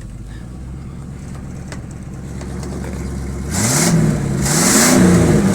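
Pickup truck engine exhausting through a Cherry Bomb muffler with the catalytic converter removed: idling steadily, then revved up twice from about three and a half seconds in, the pitch rising and falling with each rev as it gets much louder.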